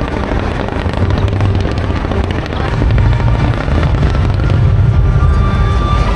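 Aerial fireworks going off in quick succession: a dense crackle over a heavy low rumble of bursts.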